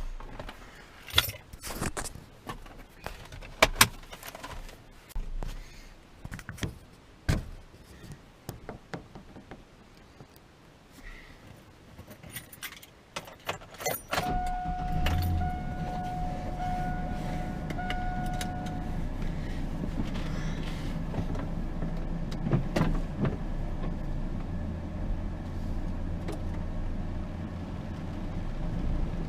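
A car being started: for the first half there are scattered clicks, knocks and jingles, like keys and handling inside the car. About halfway through, the engine starts and then runs steadily. A steady electronic warning tone sounds for a few seconds just after it starts.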